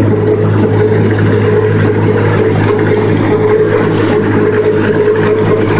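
Tractor engine running steadily at a constant speed, a loud, even drone that does not change.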